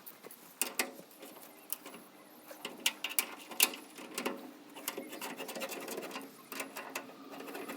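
Hand wrench or ratchet working the bolts of a truck's fuel tank: irregular metallic clicks and clanks, slow going by hand.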